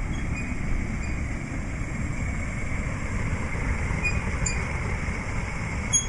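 Gas burner of a homemade chile roaster running, a steady low rumble of the flame.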